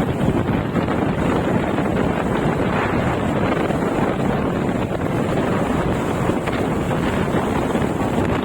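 Steady, loud wind rushing over a phone's microphone on a moving bike, with no clear engine note.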